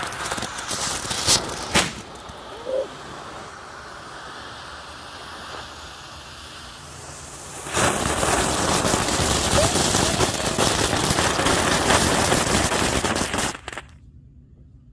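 Tank-shaped novelty firework going off. It starts with rapid crackling pops, then gives a steady hiss, then from about eight seconds in a loud, dense crackling that stops abruptly near the end.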